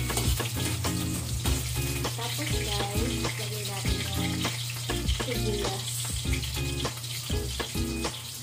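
Onion and garlic sizzling in hot oil in a wok while being sautéed, with a metal spatula clicking and scraping against the pan. Background music with a steady bass line and a repeating melody plays throughout.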